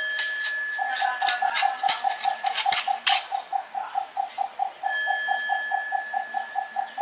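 Rainforest wildlife: a mid-pitched call repeating in quick even pulses about five times a second, over steady high-pitched insect tones. Scattered sharp clicks and knocks, with one louder knock about three seconds in.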